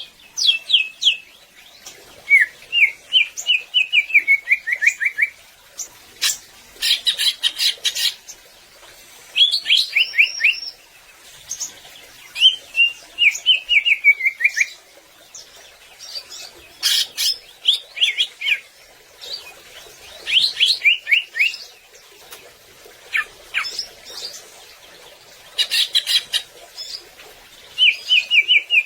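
Greater green leafbird (cucak ijo) singing in full song: short bursts of quick, slurred whistled notes, some in falling runs, repeated every couple of seconds with brief pauses between.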